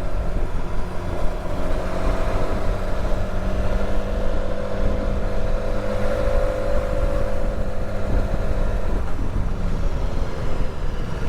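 Motorcycle riding on the road: the engine note holds steady, then eases off and fades about nine seconds in, under a constant low rumble of wind and road noise.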